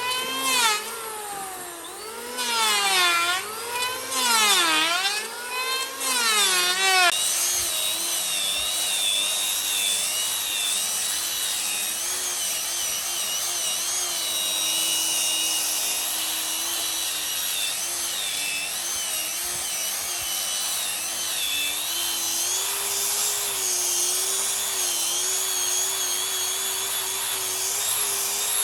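A handheld electric power tool runs as it works wood. Its motor whine dips and recovers about every one and a half seconds as it is pressed in and eased off, then holds steadier with small wobbles from about seven seconds in.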